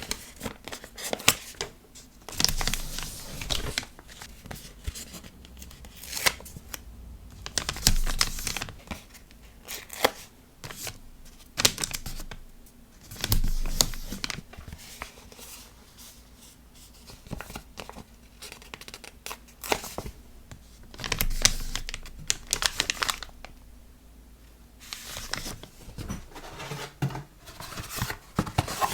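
Sticker-order packing materials handled up close: paper and plastic rustling, crinkling and tearing in irregular bursts a second or two apart, with quieter gaps between.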